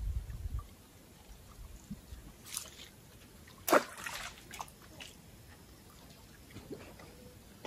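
Short water splashes: a small one, then a louder one about halfway through, followed by a few faint drips and ticks.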